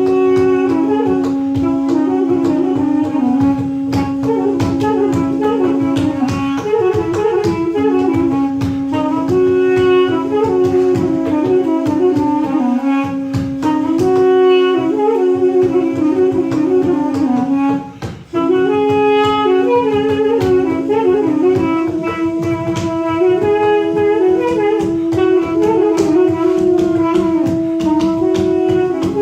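Balaban and duduk, double-reed wind instruments, playing live: a winding ornamented melody over a steady held drone note. The music breaks off briefly about two thirds of the way in, and after that the drone sits on a higher note.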